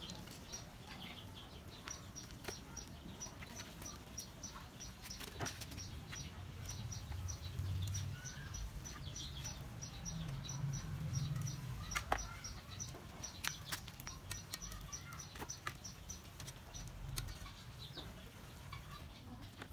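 Faint outdoor ambience: a bird chirping in short high notes, about two to three a second, with a few sharp clicks of metal tongs against the steel wok and tray.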